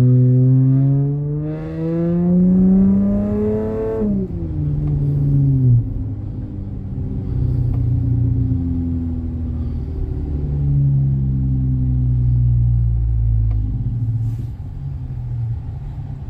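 Car engine running through a MagnaFlow aftermarket exhaust under acceleration, rising in pitch for about four seconds, then dropping sharply. It runs lower and steadier, climbs again more gently, and eases off near the end.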